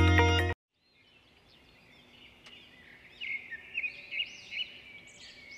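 Electronic logo music cuts off sharply about half a second in. After a moment of silence, birds chirp over faint outdoor background, with a run of loud repeated calls between about three and five seconds in.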